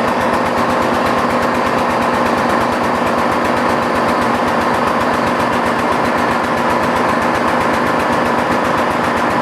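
Powered tube bender's motor running steadily under load while it bends a steel roll-cage tube, a constant hum with a fast, even pulsing.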